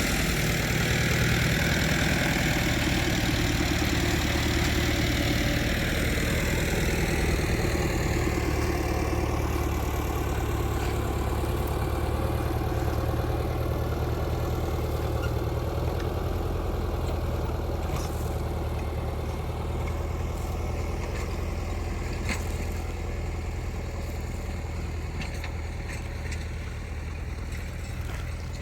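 Engine running steadily with a low hum, growing slowly fainter. A higher hiss in the first several seconds falls in pitch and dies away.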